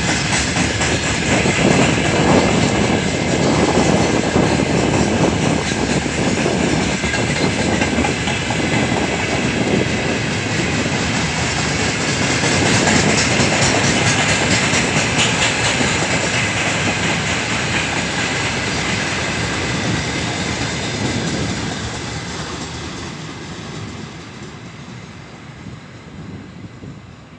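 Wagons of a long mixed freight train rolling past, their wheels clattering on the rails, steady for most of the time and then fading away over the last several seconds as the train moves off.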